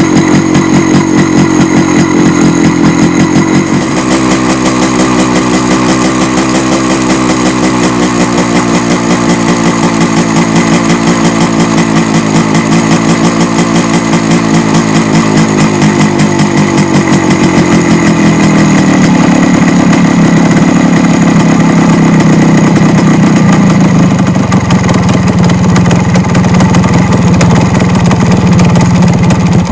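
MZ ETZ 150's single-cylinder two-stroke engine idling while warming up after a winter start. The idle wavers unevenly at first and settles into a lower, steadier beat about two-thirds of the way through.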